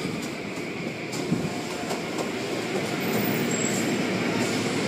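Automatic car wash machinery running with a steady mechanical noise, with one short knock a little over a second in.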